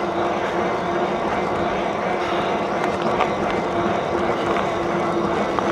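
Steady wind and rolling noise from a moving e-bike, with a faint steady hum underneath.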